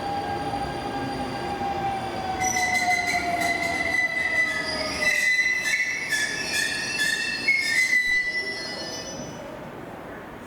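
Kintetsu electric commuter train slowing into the station: a whine falls slowly in pitch. From about two seconds in, a high, wavering squeal of wheels and brakes rises, then fades as the train comes almost to a stop.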